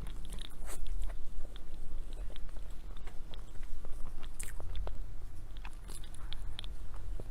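Close-miked eating sounds: a person biting and chewing a dessert, with many small irregular wet clicks and soft crunches.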